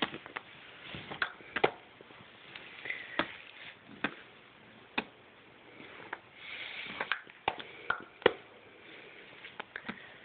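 A young child making popping sounds with her mouth: a dozen or so sharp pops at irregular intervals, some in quick pairs, with soft breathy sounds between them.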